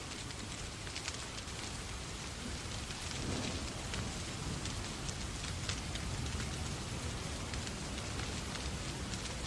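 Steady rain falling, mixed with the small sharp crackles of a wood fire in a fireplace; the sound swells slightly with a low rumble about three seconds in.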